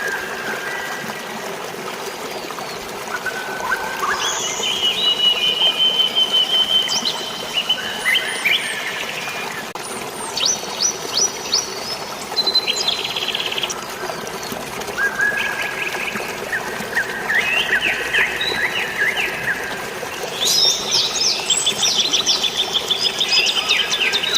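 Birds singing and chirping in short phrases of rapid repeated notes and trills, several overlapping near the end, over a steady hiss of running water.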